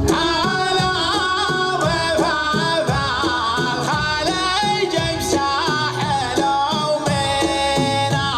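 Traditional Arabian folk song: a sung melody with wavering, ornamented pitch over steady hand-drum percussion.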